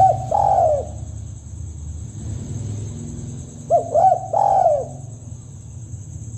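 Spotted dove cooing as a hunting lure call: two phrases about four seconds apart, each a few short rising-and-falling notes followed by a longer falling coo. A steady low hum runs underneath.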